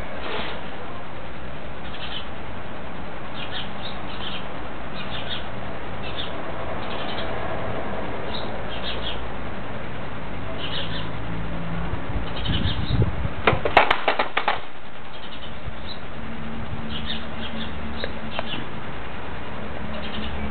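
Small birds chirping in short, repeated high notes over a steady background hiss, with a loud rustling burst of handling noise on the microphone about two-thirds of the way through.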